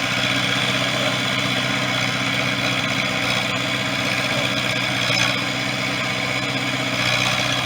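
1973 International 3444 loader tractor's diesel engine running steadily at low speed.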